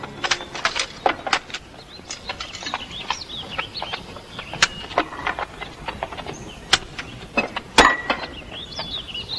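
Birds chirping in short calls that rise and fall, over scattered sharp clicks and taps.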